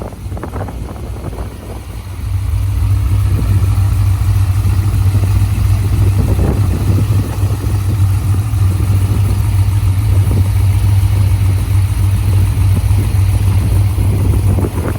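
2008 Chevrolet Corvette Z06's 7.0-litre LS7 V8 running steadily, growing louder about two seconds in and holding at that level until the sound cuts off.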